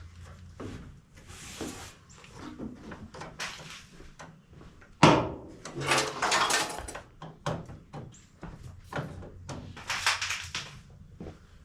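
Work noises from hands and tools on engine parts: scattered clicks, clinks and rustling, with one sharp knock about five seconds in.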